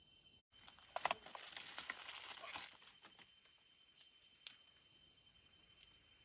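A crinkling rustle with sharp little crackles, lasting about two seconds from about a second in, as of something being crumpled or handled. A steady high thin tone runs beneath it.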